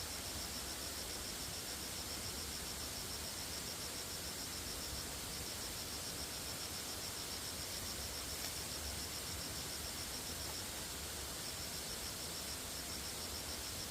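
An insect trilling in a fast, even, high-pitched pulse, pausing briefly about five seconds in and again near eleven and thirteen seconds, over a steady outdoor hiss.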